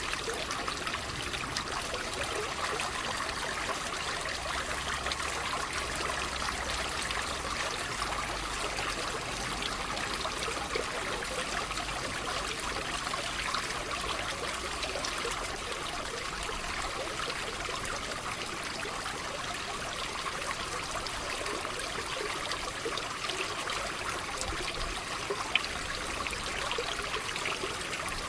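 Water trickling and splashing steadily, a continuous bubbling, with one brief click near the end.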